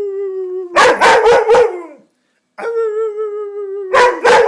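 A puppy giving a long, slightly falling howl, then four quick barks; after a short pause it howls and barks again. This is a protesting cry, going by the owner's remarks, after another puppy has taken its bone.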